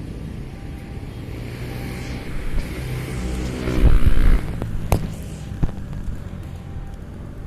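A vehicle passing close by: engine noise building up to a brief loud pass about four seconds in, followed by a sharp click about a second later and a fainter one after that, then a steady background rumble.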